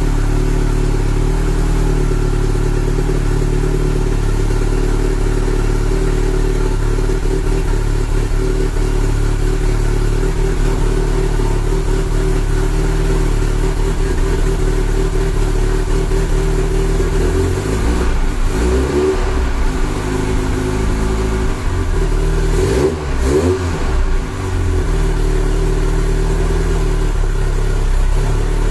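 Ford 2.0-litre Pinto four-cylinder engine in a Robin Hood Series 3 kit car, running loudly and steadily. Its pitch briefly rises and falls twice, about two-thirds of the way through and again a few seconds later, as the throttle is blipped.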